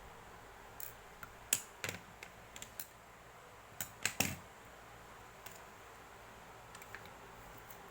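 Handling noise: a scattered run of light clicks and taps, bunched in the first half, over a faint steady hiss.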